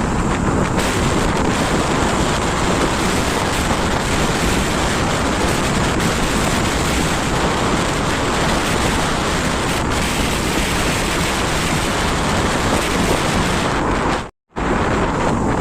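Steady, loud rush of wind buffeting the microphone while riding a bike. The sound cuts out completely for a moment near the end.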